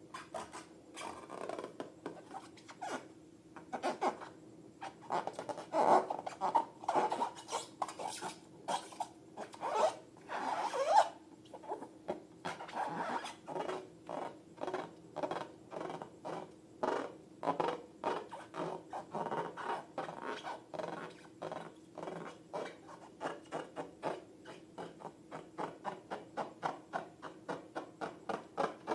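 Slime being mixed and worked: a run of short sticky clicks and squelches, coming evenly at about two a second in the second half, with one louder, rising sound about eleven seconds in.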